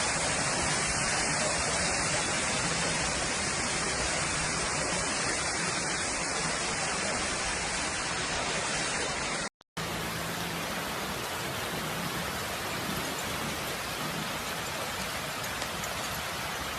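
Heavy rain pouring down in a steady hiss. It breaks off for an instant a little past halfway and resumes in the same way.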